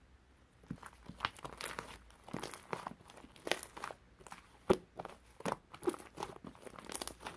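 Crinkly material, such as paper or plastic wrap, being handled close up: irregular crinkling and rustling with sharp crackles, starting about a second in.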